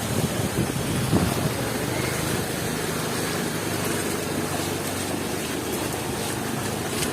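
Wind buffeting the microphone over a steady hiss of heavy rain and street traffic.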